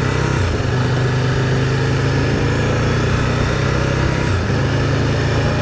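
Can-Am Spyder three-wheeled motorcycle's three-cylinder engine running steadily while riding, with wind noise. The engine note dips briefly twice.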